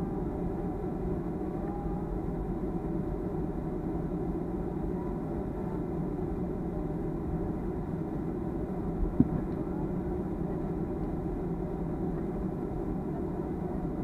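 Steady drone of a Boeing 737-300's CFM56-3 engines heard inside the passenger cabin, a low rumble with a faint hum of steady tones. A single short click sounds about nine seconds in.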